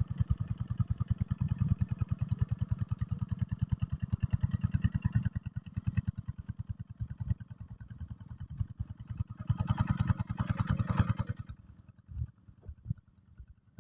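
Single-cylinder diesel engine of a two-wheel hand tractor chugging with a fast, even beat of firing pulses. About ten seconds in it gets louder for a couple of seconds, then falls away near the end, leaving a few irregular knocks.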